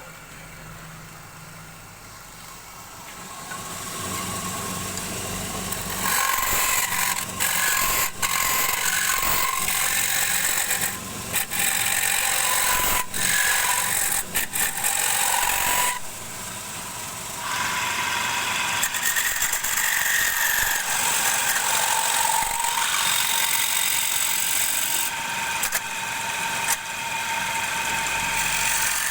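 Wood lathe motor running with a low hum, then from about six seconds in a turning tool cutting into the spinning wood, a loud rough scraping hiss broken by short gaps where the tool comes off the wood.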